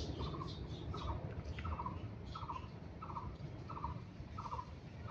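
A bird repeating a short trilled call about every 0.7 seconds, seven or eight times, with fainter higher chirps from other birds.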